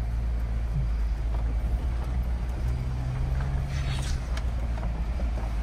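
Mahindra Thar 4x4's engine running steadily in four-wheel drive on a rocky track, heard from inside the cabin as a low drone.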